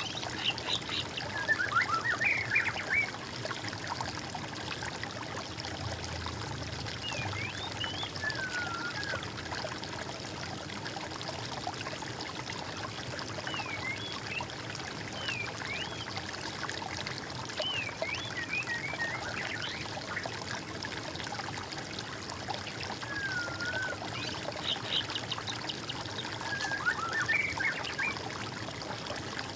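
Water trickling steadily, with songbirds calling over it in short chirps and quick whistled phrases, busiest at the start and again near the end.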